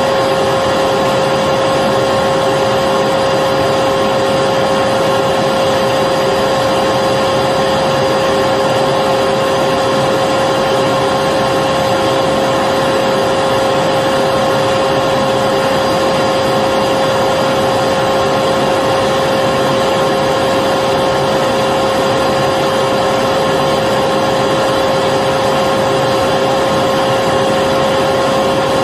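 Vacuum cleaner running steadily at one speed, a constant motor whine over rushing air with no change.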